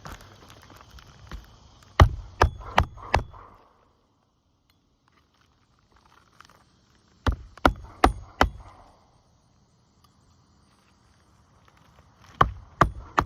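Roofing hammer driving roofing nails by hand through the nail strip of an asphalt shingle into slat roof decking: three sets of quick blows a few seconds apart, four, four and then three strikes, each set driving one nail flush.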